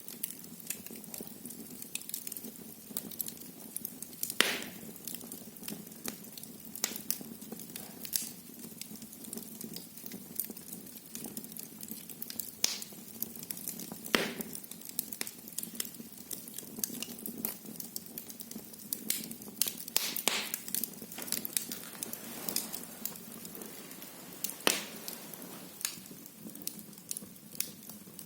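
Wood fire burning in a fireplace, crackling steadily, with several louder sharp pops spread through.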